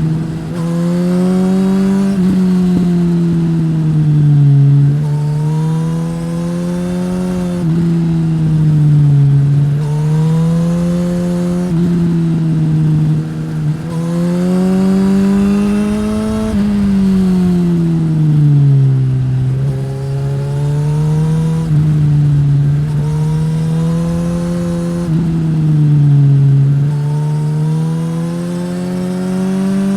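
Suzuki GSX-S1000's inline-four engine through a Yoshimura R-11 slip-on exhaust, accelerating and slowing under way. The pitch rises, steps down abruptly at gear changes and climbs again, with a few long falls as the engine slows.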